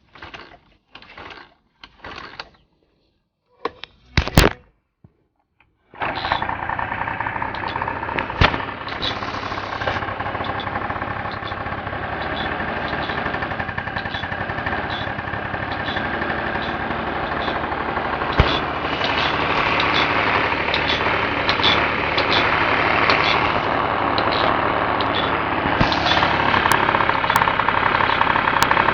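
Honda Dio AF27 scooter's 50cc two-stroke engine being cranked in several short attempts. It catches about six seconds in and keeps running.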